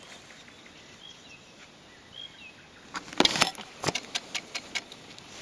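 Faint outdoor background with a few short high chirps, then about three seconds in a loud clatter followed by a string of sharp, irregular clicks.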